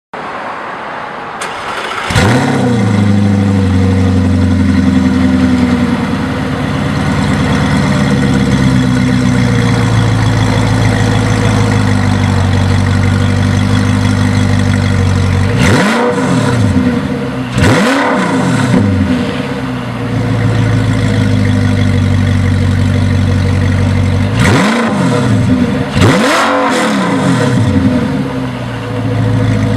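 Audi R8's 4.2-litre V8 through a Tubi aftermarket exhaust. It starts about two seconds in with a sharp flare of revs, then settles into a steady idle. Later come two pairs of quick throttle blips, each rising and falling back to idle.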